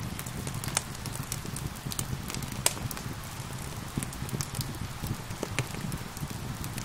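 Wood fire crackling and popping, with sharp irregular snaps, the loudest about a second in and near the three-second mark, over a steady hiss of rain and a low rumble.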